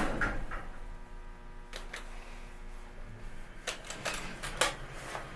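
Steady hum from the elevator's machinery that stops about three seconds in, with several sharp clicks.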